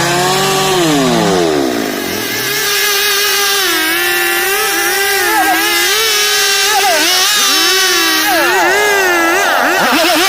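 STIHL chainsaw engine: about a second in it drops off as the throttle eases and the pitch falls, then it revs back up and runs at high speed. Its pitch dips and recovers several times as it works through wood.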